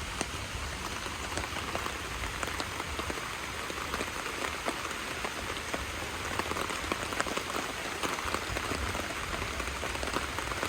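Steady rain falling, with many individual drops tapping in an irregular patter.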